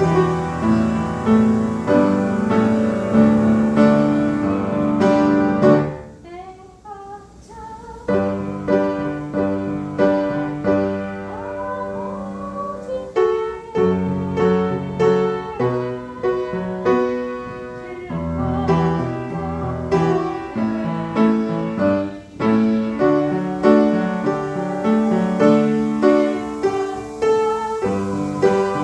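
Piano playing a slow piece in full chords, with a brief softer passage about six seconds in.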